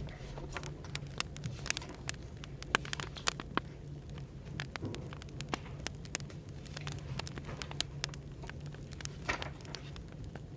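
Burning firewood crackling, with irregular sharp pops and snaps, over a steady low hum of café background noise.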